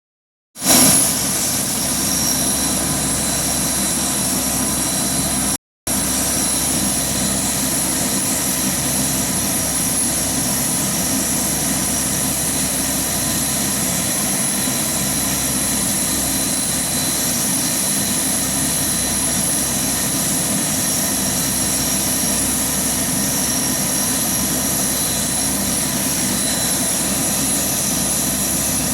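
Lockheed AP-3C Orion's Allison T56 turboprop engines running steadily on a ground engine run after maintenance: a constant loud roar with a high turbine whine on top. The audio drops out briefly about five and a half seconds in.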